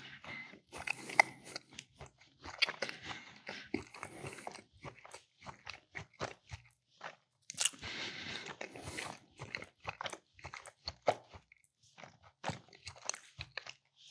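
Close-miked mouth sounds of eating a meatball sub on a soft roll with a firm, flaky crust: irregular bites, crunches, wet chewing clicks and smacks.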